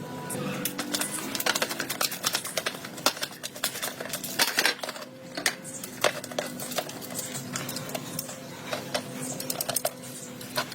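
Rapid, irregular metallic clicking and tapping, as from hand tools working on motorcycle parts, over a steady low hum.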